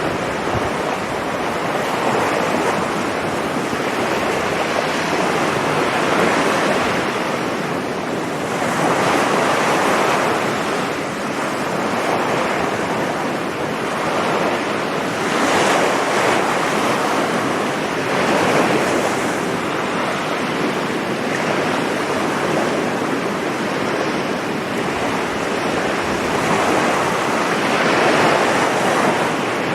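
Sea waves breaking and washing up a beach, in a steady roar of surf that swells every few seconds as each wave comes in. Wind buffets the microphone.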